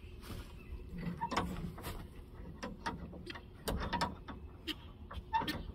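Fake eggs being set into chicken nesting boxes: a run of irregular light clacks and knocks.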